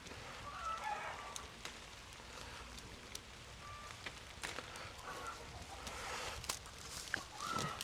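Light rain hissing steadily, with scattered small clicks and rustles and a few faint bird calls.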